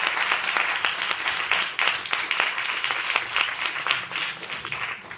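Audience applauding: many hands clapping, fading out near the end.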